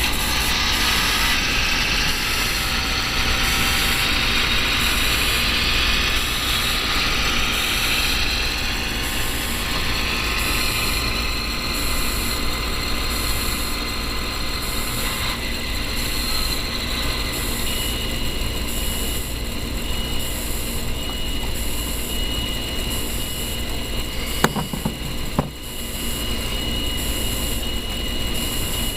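Digitrax sound decoder in a model Mack CF truck playing a diesel engine sound from a modified RDC railcar sound file through its small speaker, mixed with the whir of the Superstreets chassis motor and gears. Two sharp clicks come about 25 seconds in.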